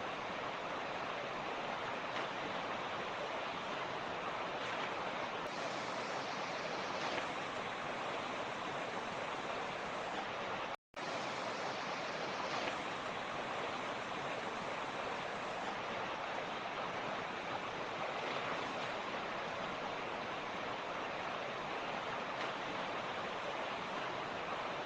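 Torrent rushing steadily, an even hiss of flowing water. About eleven seconds in the sound cuts out completely for a split second, then resumes unchanged.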